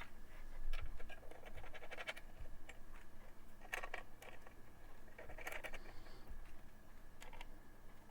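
Light clicks and scratching of small metal parts: the screws of a Noctua CPU-cooler mounting kit being fitted and turned in by hand to hold its metal brackets, in uneven clusters.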